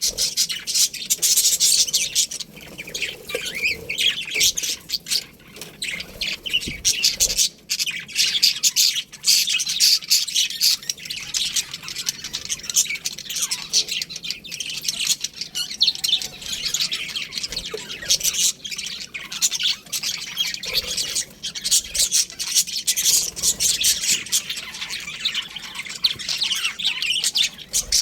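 A colony of budgerigars chirping and chattering at once, many quick overlapping calls without pause.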